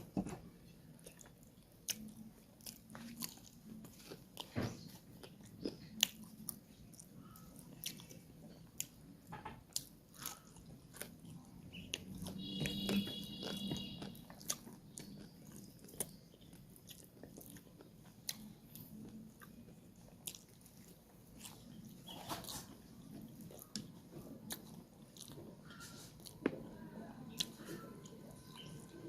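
Close-up eating: a person chewing chicken curry and rice, with wet mouth smacks and many short clicks and crunches. A brief high-pitched tone sounds about halfway through.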